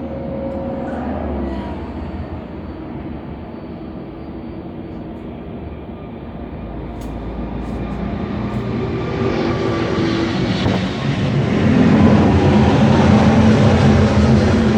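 Jet airliner's engines passing close by, growing louder through the second half and loudest near the end.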